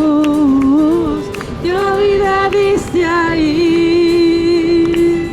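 A Christian worship song being sung, a single voice line holding long, drawn-out notes with a slight waver.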